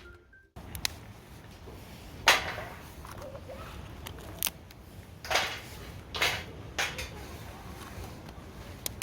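A handful of irregular sharp clacks and knocks of objects being handled, the loudest about two seconds in, over steady low background noise.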